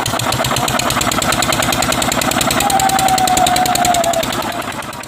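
Old single-cylinder diesel engine running with a rapid, even exhaust beat. A steady whistle-like tone sounds over it for about a second and a half in the middle, and the engine sound fades near the end.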